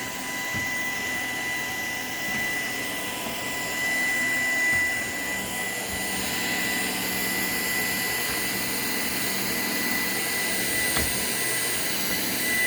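Shark PowerDetect vacuum running steadily in eco mode: an even hiss of suction with a steady high whine, and a single brief click near the end.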